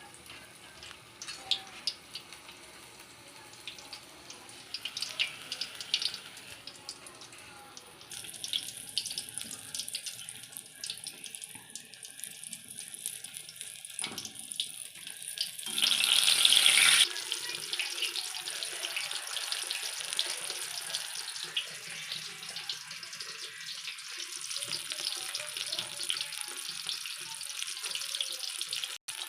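Gram-flour-battered green chillies (mirchi bajji) deep-frying in hot oil in a kadai: a steady crackling sizzle with many small pops, rising to a louder hissing surge for about a second around the middle before settling back to a steady sizzle.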